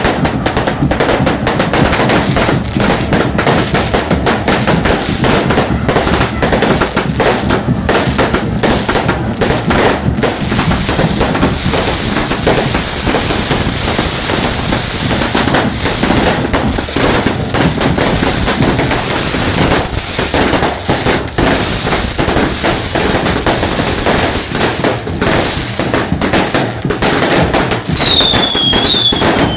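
Fireworks going off in a rapid, unbroken barrage of bangs and crackling. Near the end several whistles fall in pitch one after another.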